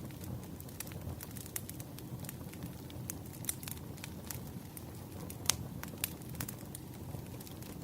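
Burning firewood crackling, with irregular sharp pops and snaps over a low steady rumble of the fire; one louder pop about five and a half seconds in.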